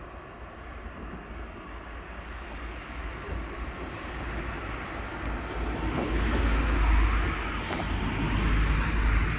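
A refuse collection truck's diesel engine rumbling as it approaches, growing steadily louder and heaviest in the last few seconds.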